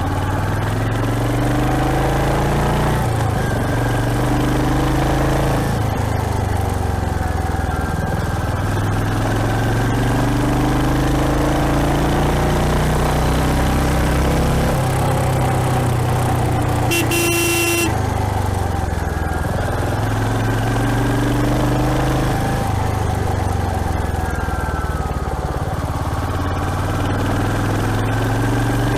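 Royal Enfield Hunter 350's single-cylinder engine running under way, its pitch repeatedly climbing and then dropping as it pulls through the gears. A vehicle horn sounds once, for about a second, just past halfway.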